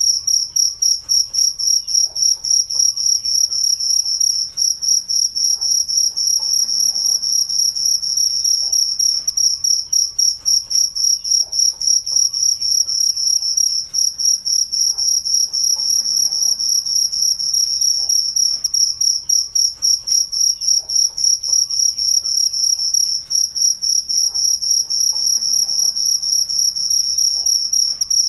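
Crickets chirping: a high-pitched, steady song of rapid, even pulses that runs on without a break.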